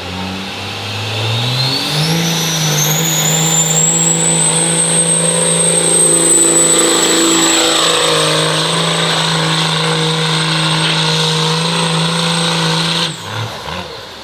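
Turbocharged diesel pickup truck making a pull at full throttle. The engine climbs in revs with a rising turbo whistle over the first few seconds, holds high and steady for about ten seconds, then cuts off suddenly near the end as the throttle is released.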